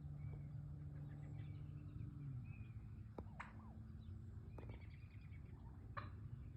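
Soft turkey clucks and purrs: short chirpy notes, with two sharper clucks a little after three seconds and again near six seconds, over a steady low hum.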